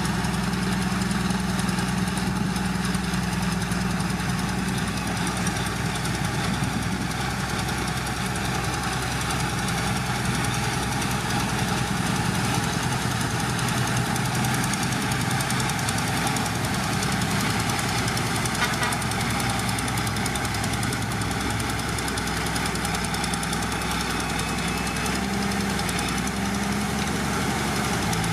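Heavy diesel engine of earthmoving machinery running steadily, with a rapid, even clatter over a low engine tone.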